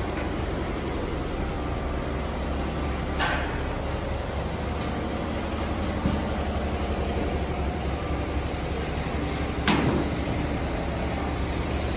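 Steady low mechanical hum with two short, sharp knocks, one about three seconds in and a louder one near the end.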